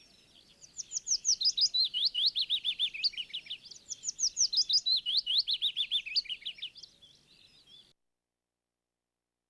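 Bird song: two long runs of rapid, high chirps, each a quick pitch sweep, at several notes a second.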